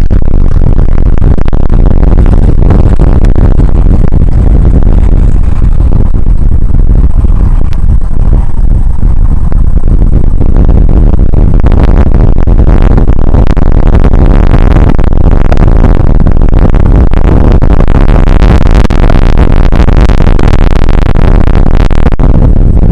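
Rain shower and wind on an outdoor weather-camera microphone, overloading it into a constant, loud, distorted rumble and hiss. From about halfway through, a crackling hiss spreads higher and grows stronger.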